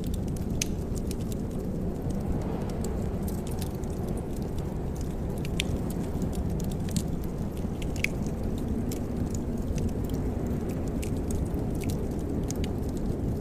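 Wood fire crackling in a fireplace: irregular sharp pops and snaps scattered over a steady low rushing sound.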